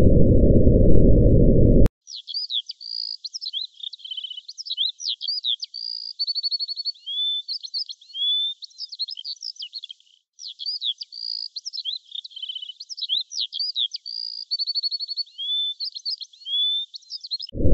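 A low rumble with a faint steady high tone, which cuts off abruptly about two seconds in. Then a songbird sings a varied song of clear whistles, rapid trills and chirps. The same run of phrases plays twice, with a short break in the middle.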